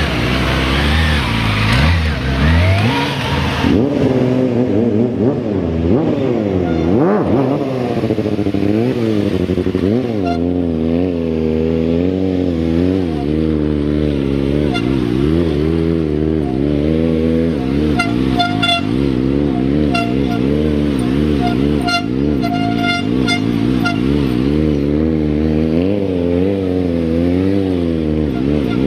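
Motorcycle engines revving over and over, the pitch swinging up and down continuously as the throttle is worked during stunt riding. About two thirds of the way through comes a run of short, high-pitched toots.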